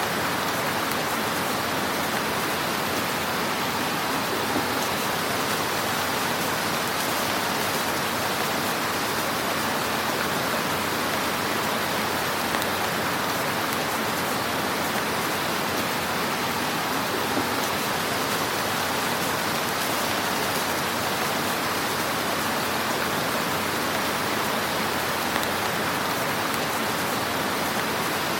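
Fire burning in a fireplace: a steady, even hiss with a few soft crackles.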